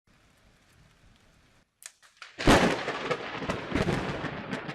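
Lightning strike close by: a sudden very loud thunderclap about two and a half seconds in, followed by crackling, rumbling thunder.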